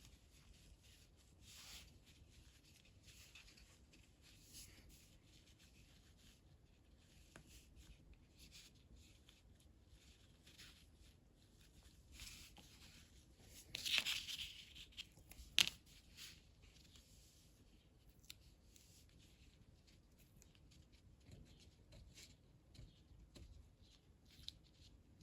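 Faint rustling and crinkling of scrunched tissue paper being handled and pressed onto paper and tape, with a louder crinkle about fourteen seconds in and a sharp tick shortly after.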